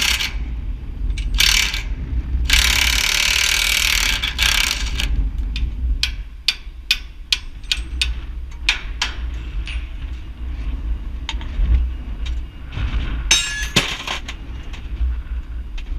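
Sharp metallic clinks and taps, a dozen or more scattered over several seconds, over a low steady engine rumble; in the first few seconds a loud hiss comes and goes.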